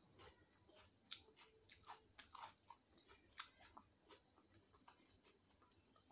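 Faint, close-miked chewing of a mouthful of chole and puri: irregular soft wet mouth clicks and smacks, with one sharper click about three and a half seconds in.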